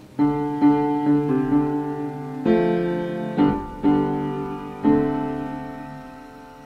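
Piano intro of a song: chords struck one after another, each ringing on and fading, growing softer near the end.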